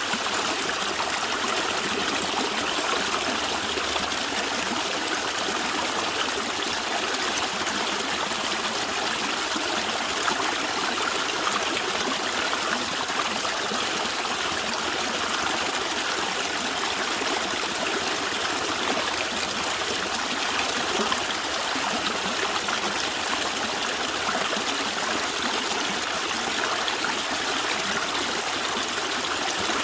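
A stream of water running and gurgling steadily, an even splashing rush with no breaks.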